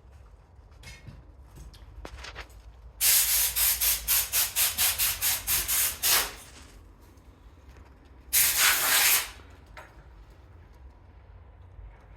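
A rapid series of short hissing sprays, about five a second for some three seconds, then one longer spray of about a second.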